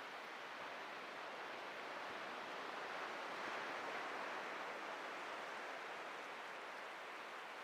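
Atlantic surf breaking and washing up the beach: a steady rush of waves that swells gently about halfway through and then eases.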